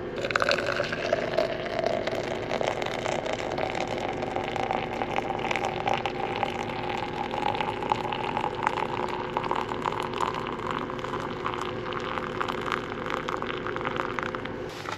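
Water coming to the boil for coffee: a steady hiss with fine crackling and bubbling, and a faint tone that slowly rises in pitch.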